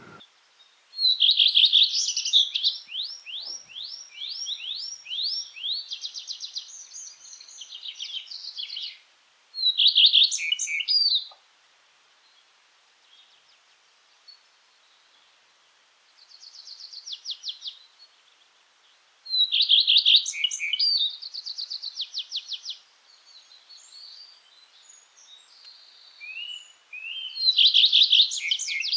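Songbirds singing: short phrases of quick high trilled and twittering notes repeated every few seconds, with quiet gaps between.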